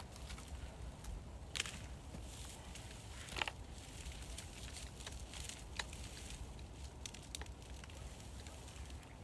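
Scattered light knocks and crackles, with two sharper knocks about one and a half and three and a half seconds in, over a steady low rumble.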